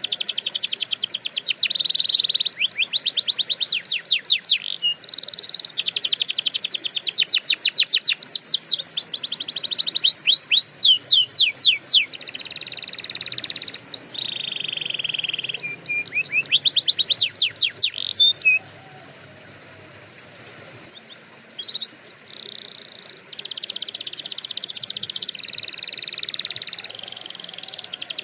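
Canary singing: fast trills of repeated high falling notes alternating with steady rolled phrases, broken by a quieter pause of a few seconds past the middle.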